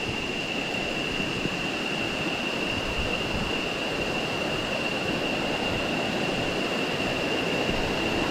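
Rushing river water, a steady even noise, with a steady high-pitched whine held through it.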